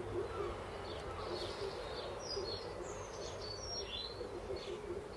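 Garden birds chirping and calling, fairly faint, with many short high twittering notes.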